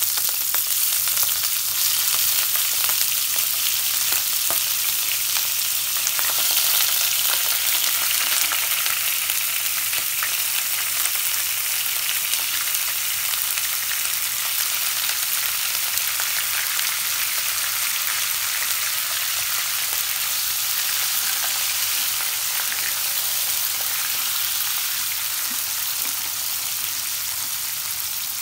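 Raw prawns sizzling in hot oil in a shallow non-stick pan, a loud, steady, dense crackle that eases slightly near the end. A wooden spatula stirs and scrapes through them now and then.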